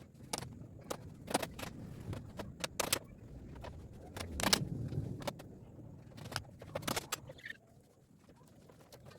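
Irregular sharp knocks and clicks, a dozen or so, with a low rumble about halfway through.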